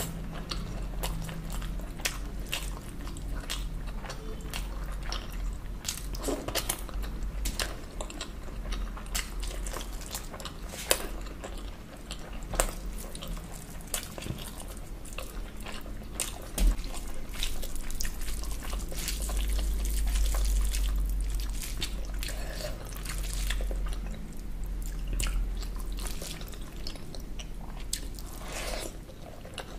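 Close-miked eating: wet chewing and lip-smacking with many sharp mouth clicks, from someone eating rice and spiced chicken by hand. A steady low hum runs underneath and swells briefly a little past the middle.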